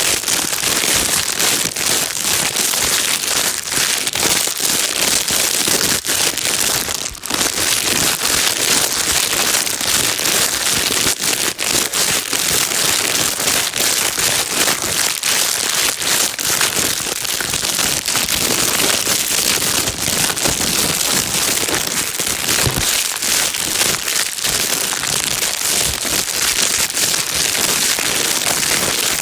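Plastic bag being crinkled and rustled continuously: a dense, loud crackle of many small clicks, with a brief dip about seven seconds in.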